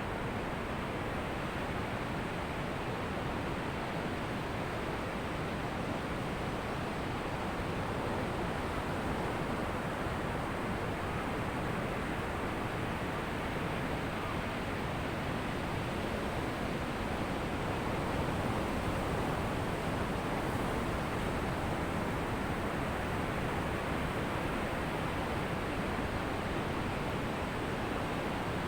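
Ocean surf washing on a beach: a continuous, even rush of breaking waves that swells a little louder about two-thirds of the way in.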